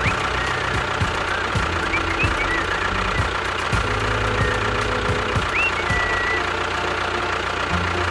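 Engine running steadily with a knocking rattle.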